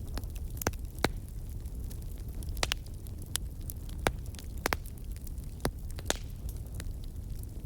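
Wood campfire crackling, with sharp pops and snaps at irregular intervals, about ten in all, over a steady low rumble.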